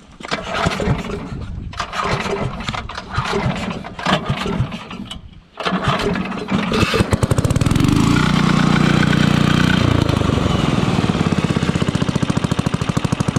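Carbureted gasoline engine of an old welding generator firing unevenly in sputtering bursts, then catching about six seconds in and running with fast, even firing pulses. It runs up louder for a couple of seconds, then settles to a steady run while being fed fuel straight to the carburetor, bypassing the fuel pump.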